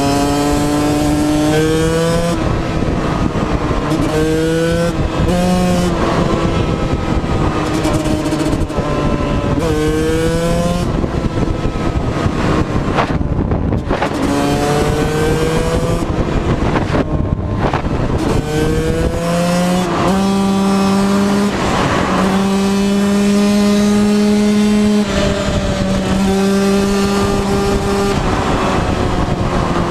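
Motorcycle engine accelerating hard through the gears. Its pitch climbs and drops back at each shift, several times over, then holds fairly steady at cruising speed in the later part.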